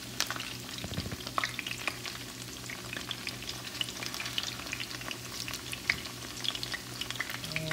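Batter-coated cauliflower florets deep-frying in hot olive oil in a pan: a steady sizzle dotted with many small crackles and pops.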